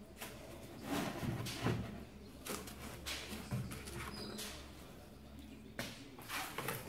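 Cardboard craft pieces being handled and pressed into place: scattered rustles and light knocks, busiest about a second in and again near the end.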